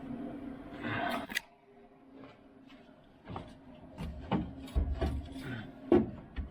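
A steady hum with a short rough rush cuts off about a second and a half in. Then come scattered metal clicks and knocks of tools being handled, the loudest near the end.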